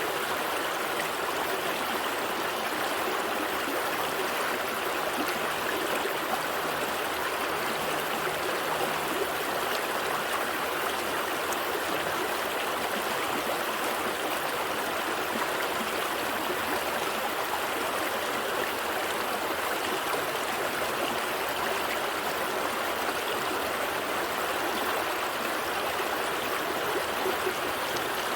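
A gentle stream flowing over rocks: a steady, even rush of water with a light gurgle.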